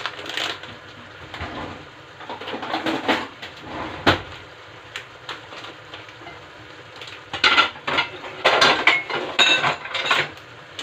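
Kitchen clatter of pots and utensils knocking, with a sharp knock about four seconds in and a busier run of clattering near the end.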